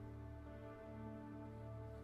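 Quiet, slow new-age background music: long held notes over a low drone.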